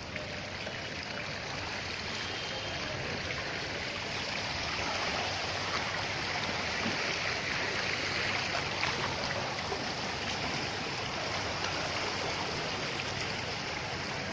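Steady rush of water on a rain-flooded street, growing slightly louder a few seconds in.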